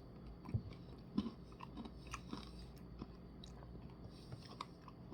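Faint chewing of a spoonful of soft-serve ice cream with crunchy frosted animal cookie pieces: scattered small crunches and mouth clicks, the loudest about half a second and a second in.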